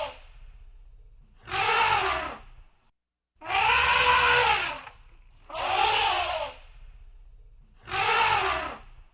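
Elephant trumpeting: four loud, brassy calls about two seconds apart, each about a second long, rising and then falling in pitch.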